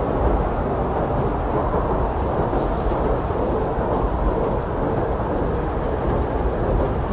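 Steady, heavy blizzard wind: a deep, continuous rushing rumble with no gusts breaking through.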